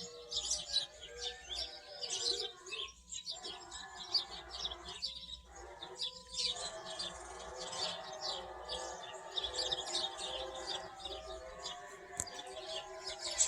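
A flock of sparrows chirping continuously, many short, rapid chirps overlapping. The sound cuts out briefly three times in the first half.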